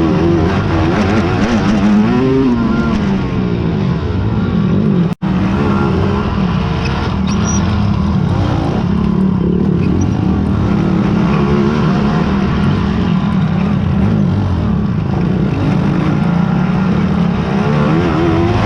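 Racing quad (ATV) engines revving up and down. The sound cuts out briefly about five seconds in.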